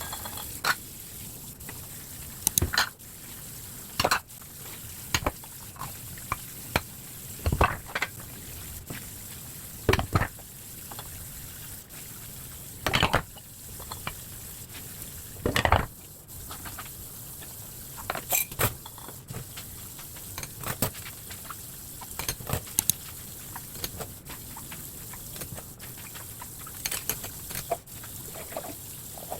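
Kitchen dishes and utensils clinking and knocking at irregular intervals, over a steady hiss.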